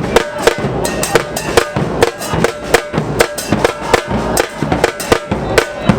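Supporters' drums beating a quick, steady rhythm of sharp hits, with a deeper drum underneath.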